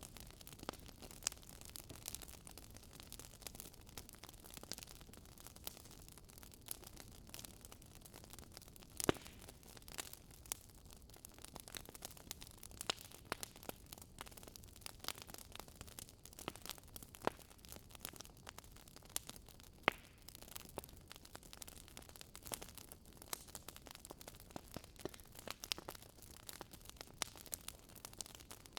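Wood fire burning in a fireplace, crackling with irregular sharp pops and snaps over a steady low hiss of the flames; two louder pops stand out, about 9 and 20 seconds in.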